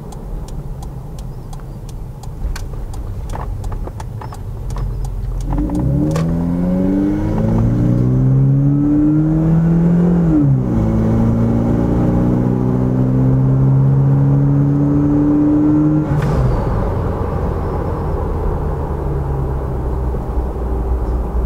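Turbocharged Toyota 3RZ-FE 2.7-litre four-cylinder engine pulling at full boost, heard from the cab. Revs climb hard in first gear, dip sharply at the shift into second about ten seconds in, climb again, then fall away as the throttle is lifted near sixteen seconds. Before the launch there is a light, quick clicking.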